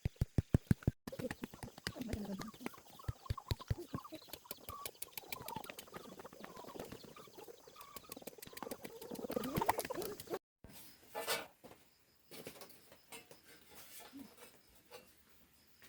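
Farm poultry calling, with many short overlapping calls over a run of rapid clicks. The sound cuts off abruptly twice, about a second in and near two-thirds of the way through.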